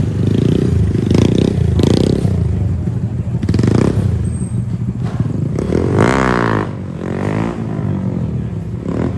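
Small motorbike engines running, with several short revs and one engine's pitch rising and falling quickly about six seconds in.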